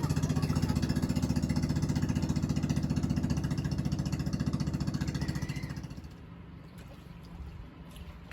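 Small boat engine running with a fast, steady chug, fading away about six seconds in.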